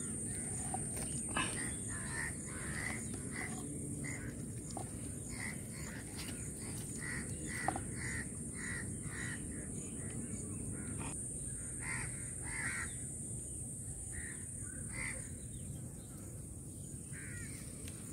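Outdoor ambience: a bird calls over and over in short calls, about one or two a second, stopping near the end, over a steady high-pitched insect drone.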